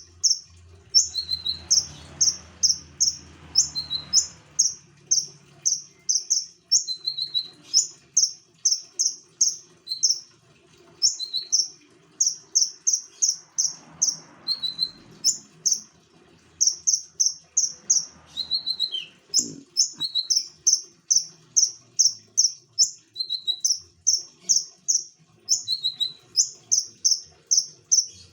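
Konin songbird singing continuously in fast runs of short high notes, about three or four a second, broken by brief pauses and a few lower notes.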